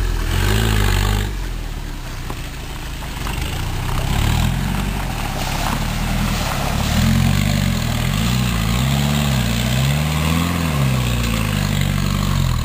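Land Rover Defender's engine working through deep mud, its revs rising and falling several times in the second half as the driver blips the throttle for traction.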